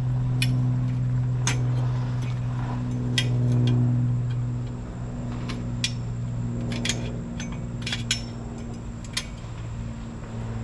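Scattered metallic clicks and clinks of hand tools working on exhaust fasteners, over a steady low hum.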